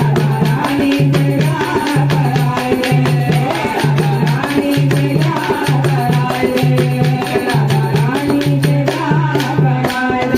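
Hindi devotional bhajan music: a steady dholak-led beat with rattling hand percussion, a repeating low figure and a wavering melody line.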